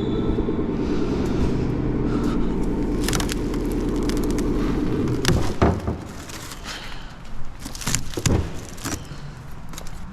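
Lexus IS300's 2JZ straight-six idling steadily, then switched off about five seconds in. A few sharp knocks and rustles follow.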